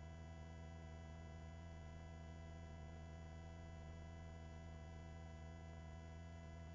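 Faint, steady hum made of several fixed tones, unchanging throughout: the background of a helicopter's intercom audio feed while nobody talks.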